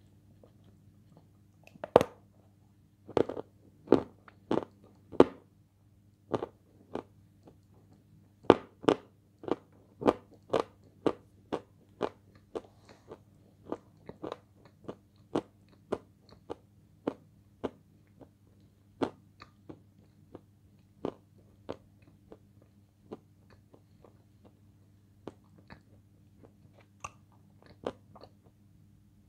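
A person biting off and chewing hard, dry chunks of light Turkestan edible clay, giving sharp crunches. The crunches are loudest and come thickest in the first ten seconds or so, then settle into a steady run of softer chewing crunches about one or two a second.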